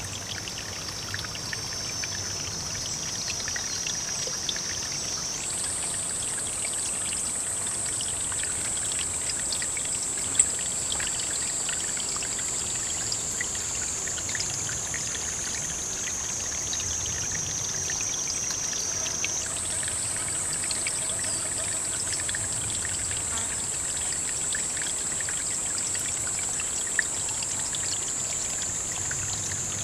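Steady running, pouring water with many small ticks. A high thin whine sits above it, jumping up in pitch twice and sliding slowly down in between. Two sharp clicks, one about a third of the way in and one near the end.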